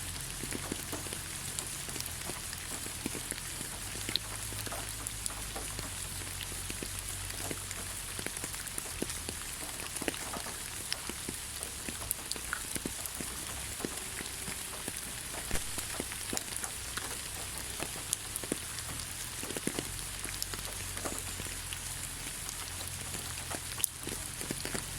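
Steady rain falling on the ground, an even hiss dotted with many separate drops landing.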